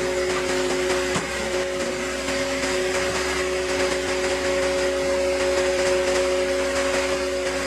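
Cord King firewood processor running steadily, a constant mechanical hum with hiss, with a single knock about a second in.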